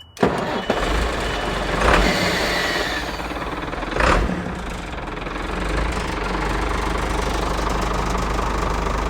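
Ford truck engine starting up again after being shut off: it comes in suddenly just after the start, rises in revs twice, around two and four seconds in, then settles into a steady idle.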